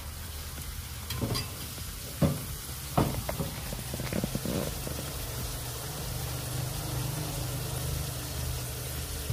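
A chapati frying in oil in a non-stick pan, with a steady sizzle. A few sharp knocks and small clicks come in the first half.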